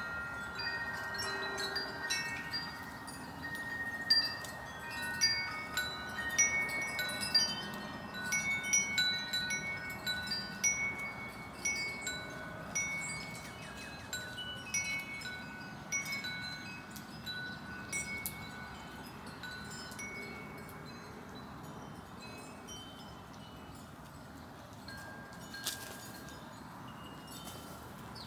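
Wind chimes ringing in the breeze, many overlapping tones struck and fading, busiest in the first half and thinning out toward the end. A single sharp click near the end.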